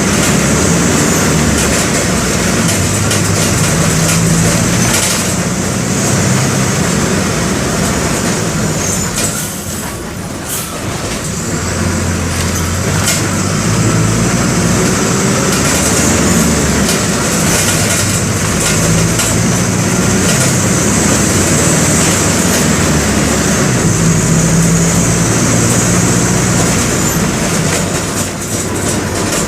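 The Mercedes-Benz OF-1722M bus's OM-924 LA four-cylinder inline diesel is running under way. Its note rises and falls with speed, and the level briefly drops about ten seconds in.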